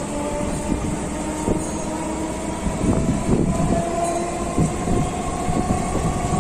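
Electric local train running, heard from inside a coach: a steady rumble of wheels on the track with irregular knocks and clatter, and a steady whine from the drive that steps up slightly in pitch about four seconds in.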